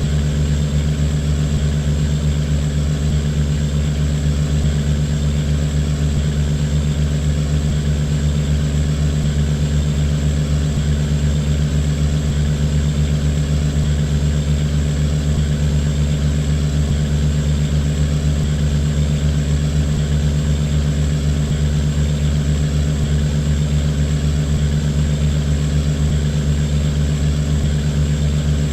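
A boat's engine running steadily, a constant low drone with no change in speed.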